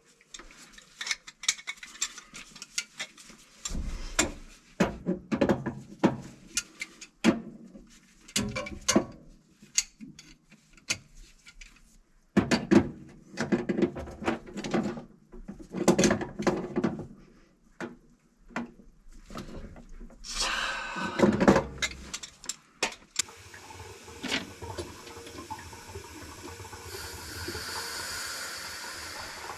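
Irregular clanks and knocks of plumbing work on pipe fittings, then, about three quarters of the way in, a steady rush of running water that grows stronger near the end.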